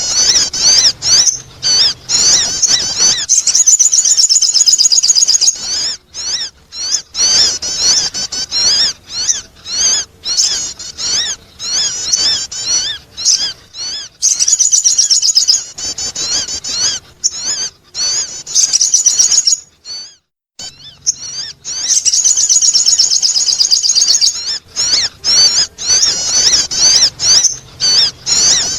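Sogon bird lure calls: rapid, high, wavering chattering chirps in long unbroken runs, with short pauses about six seconds in and about twenty seconds in. These are the calls played to attract birds.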